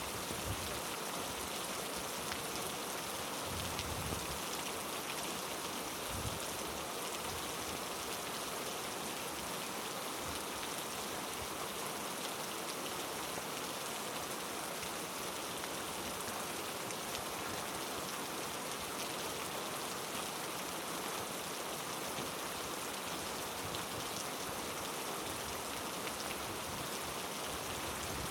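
Heavy rain falling steadily on rainforest foliage and ground, a continuous dense hiss of drops without letup.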